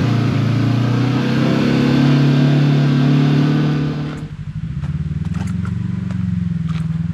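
Side-by-side UTV engine running steadily under way, its pitch edging up. About four seconds in, the sound changes abruptly to a lower, quieter engine note with scattered sharp clicks and knocks.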